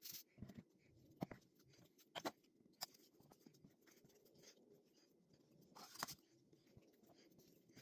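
Quiet, scattered clicks and soft sticky handling noises as sourdough bread dough is worked and shaped by hand, with a faint steady hum underneath.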